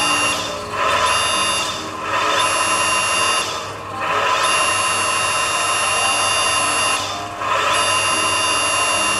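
Electric hydraulic pump of a radio-controlled model crane truck whining steadily, cutting out and starting again several times as the hydraulics are worked, with the longest run in the middle.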